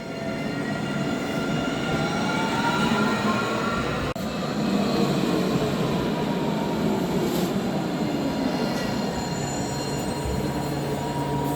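Alstom Citadis tram pulling away, its electric traction motors whining higher in pitch for about four seconds as it gathers speed, over the rumble of steel wheels on rail; the whine then levels off and slowly fades.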